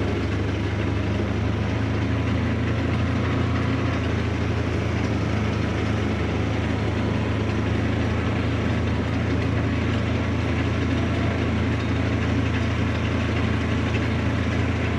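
A vehicle engine running steadily at an even pace, a constant low drone with no change in speed.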